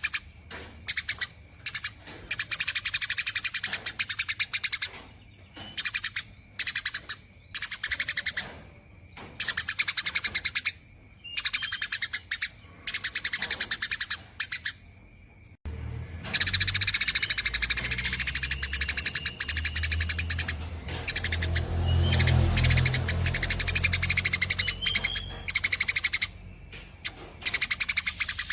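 Eurasian tree sparrow chattering in long, rapid runs of chirps, in bursts with short pauses between them. From about halfway there is a low rumble under the calls.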